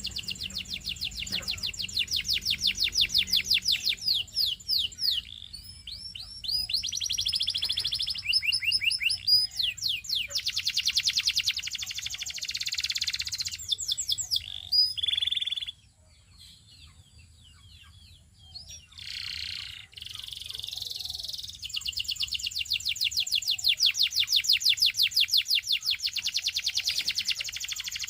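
Domestic canary singing long rapid trills of fast repeated high notes, with a pause of a few seconds a little past the middle before the rolling trills resume.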